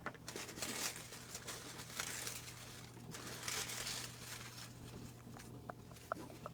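Slips of paper rustling and crinkling in a hat, in several soft spells of a second or so each.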